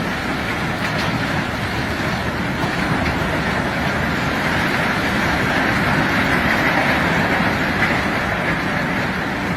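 Steady rushing rumble of a rock-unloading operation: heavy machinery working with rock pouring. It swells slightly through the middle.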